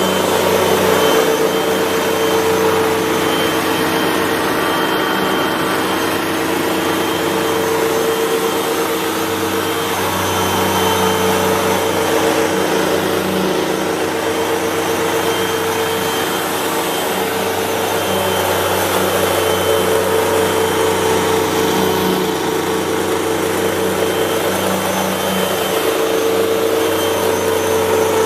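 Hoover WindTunnel 3 Pro Pet upright vacuum cleaner running steadily, its motor giving a constant whine over a rushing airflow, with the loudness swelling and easing gently every few seconds.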